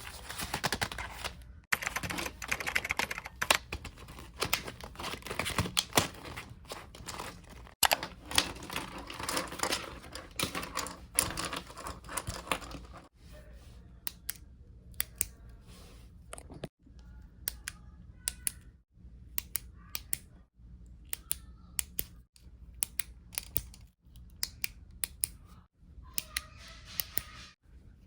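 Light clicks and taps of small stationery items being handled and unpacked. The clicking runs thick for the first half, then thins to sharp single clicks, broken by short silent gaps.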